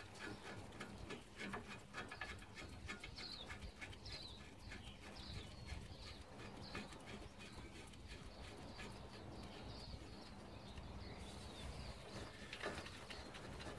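A small bird chirping again and again in the background, faint short chirps. A few light clicks come in the first couple of seconds as the lower brake caliper-carrier bolt is threaded in by hand. A low steady hum runs underneath.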